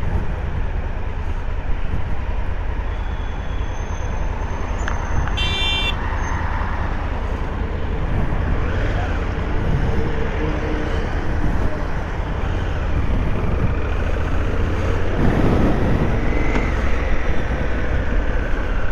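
Honda Africa Twin CRF1000L's parallel-twin engine running amid road traffic noise, a steady low rumble under a broad roar that grows slightly louder in the second half. A brief high-pitched sound cuts in about five and a half seconds in.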